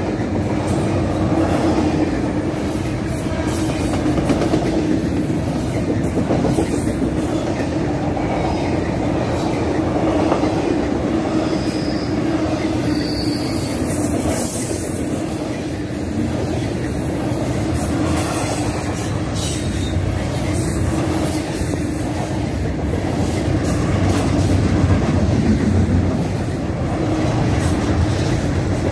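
Double-stack intermodal freight train's well cars rolling past close by: a steady rumble of steel wheels on rail with clickety-clack over the rail joints. A couple of brief, faint high wheel squeals come near the middle.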